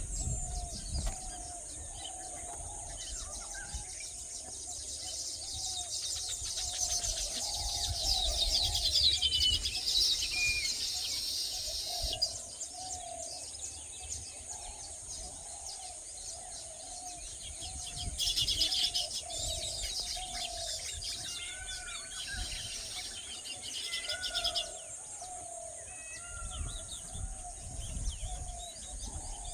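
Wild birds calling: a low call repeats about once a second, while high, fast twittering comes in twice, with a steady high hiss underneath.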